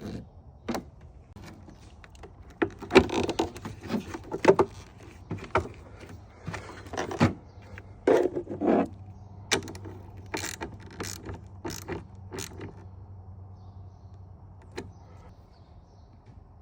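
Irregular clicks, clunks and metallic jangling from hands at work on the truck's battery installation, busy at first and thinning out over the last few seconds, over a faint steady low hum.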